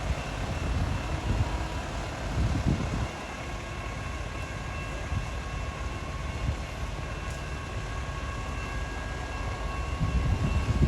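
Stopped train idling: a steady low rumble with a faint steady whine above it, the rumble swelling louder near the end.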